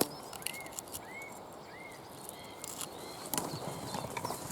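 Small birds giving short, repeated chirps, with scattered crackles and snaps of brush and twigs as someone struggles free of tangled undergrowth.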